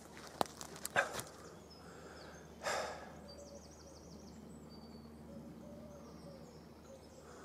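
Quiet woodland with a small songbird giving a brief, rapid high trill about three seconds in, then faint high notes. A few sharp clicks come in the first second, and a short breathy hiss just before the trill.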